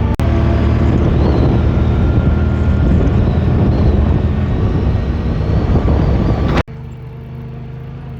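Side-by-side UTV engine running while driving, a loud steady drone with some wind on the microphone. About six and a half seconds in it cuts off abruptly to a quieter, steady engine hum.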